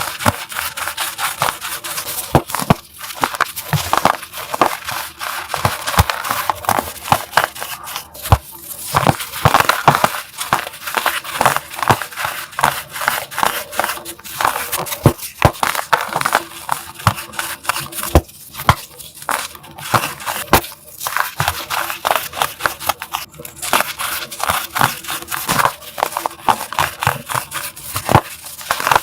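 Blocks of gym chalk being crushed, crunching and crumbling in a dense, continuous crackle with many sharp snaps.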